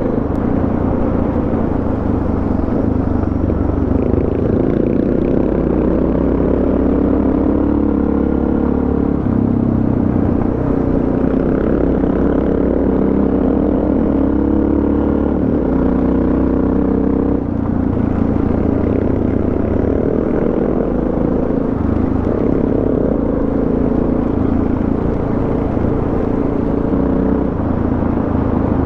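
Suzuki DR650 single-cylinder four-stroke dual-sport motorcycle under way on a dirt road, its engine note rising and falling with throttle and gear changes, with a brief ease-off about seventeen seconds in.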